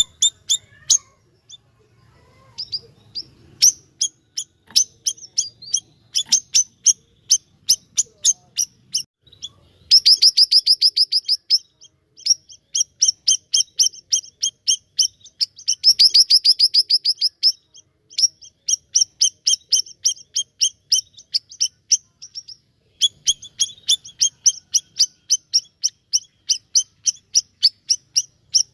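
Siri-siri (bayeman) songbird singing energetically: a long series of sharp, high chirps, several a second, broken by two fast, dense trills about ten and sixteen seconds in.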